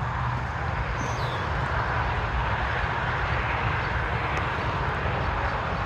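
Steady outdoor background noise: a low, uneven rumble with a hiss over it, and one faint, short, high chirp about a second in.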